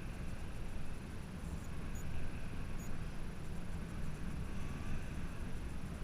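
Wind buffeting the camera microphone, heard as an uneven low rumble and hiss.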